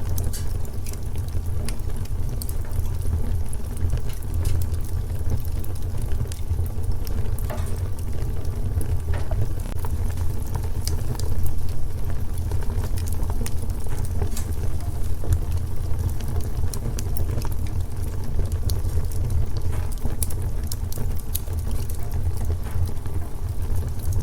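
Wood fire crackling in a fireplace: irregular sharp pops and ticks over a steady low rumble.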